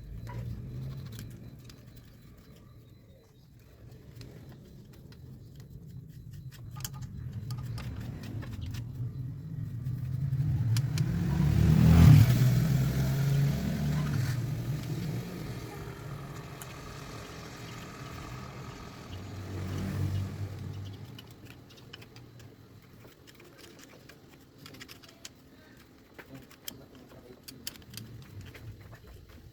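A motor vehicle passing by: a low rumble grows louder to a peak about twelve seconds in, then fades away. A second, smaller pass comes around twenty seconds, with faint scattered clicks in between.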